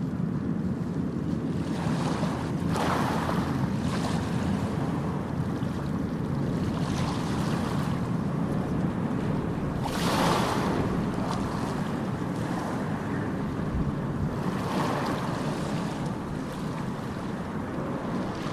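Ocean surf: waves washing in over a steady low rush of water, swelling and falling back every few seconds, the biggest about ten seconds in.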